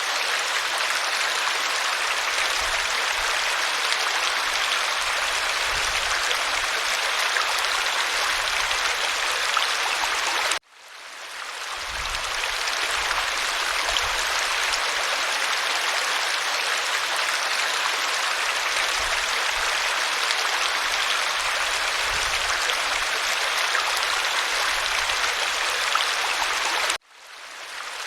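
Waterfall rushing steadily. Twice it cuts out suddenly, about ten seconds in and again near the end, then fades back up over a second or two, as at the seam of a looped recording.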